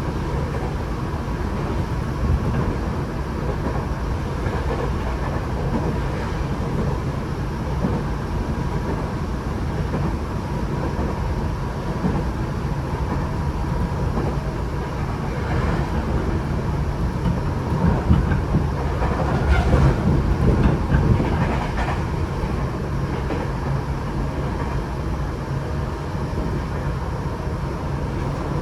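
Tokyo Metro 8000 series electric train running, heard from inside the passenger car: a steady rumble of wheels on rail with clatter over the rail joints and a faint steady whine, growing louder for a few seconds about two-thirds of the way through.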